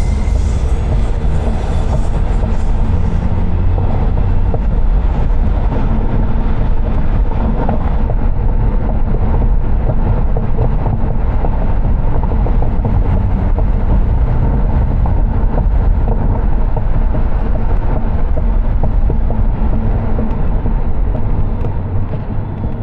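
Loud, steady rumble of a moving vehicle, with road or track noise and fine rattling throughout.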